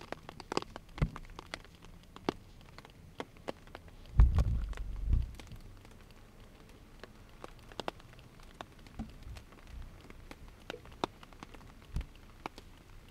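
Rain falling on a tarp overhead: irregular drops tapping on it, with one louder low thump about four seconds in.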